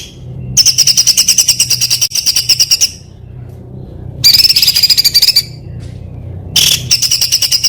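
A songbird singing rapid high-pitched trills: three bursts of fast repeated notes, more than a dozen a second, each burst one to two seconds long and starting and stopping abruptly.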